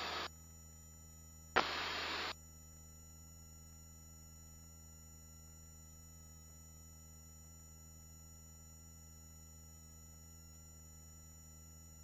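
Helicopter headset intercom feed with no one talking: a faint steady low hum and thin steady whine tones. A voice-activated headset mic keys open briefly twice, at the very start and again for under a second around the two-second mark, each time letting in a burst of cabin hiss that starts with a click.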